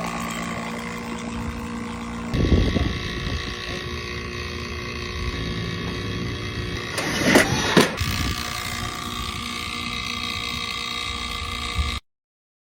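A machine running steadily with a hum of several fixed tones, briefly louder with rattling about two seconds in and again twice near the eight-second mark, then cutting off abruptly near the end.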